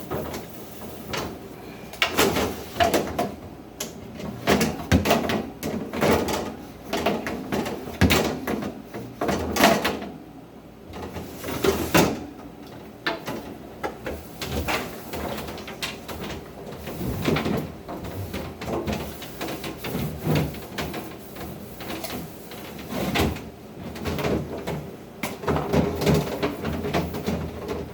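Wiping down the inside of a refrigerator with a rag and spray cleaner: rubbing and scrubbing on the plastic interior, with frequent irregular knocks and clatters of shelves and bins being handled.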